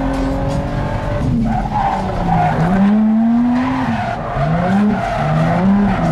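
Nissan 350Z's 3.5-litre V6 revving hard in a drifting stunt display, its pitch climbing, dropping about a second in, climbing again, then several shorter rises near the end, with tyres squealing and skidding.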